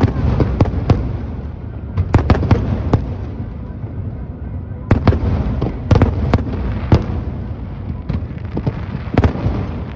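Aerial fireworks bursting: sharp bangs in irregular clusters, some in quick runs, over a low rumble.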